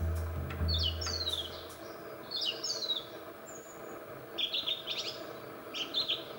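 Small birds chirping: several quick series of high notes that slide down in pitch, then rapid clusters of short notes near the end. A low steady hum runs under the first two seconds.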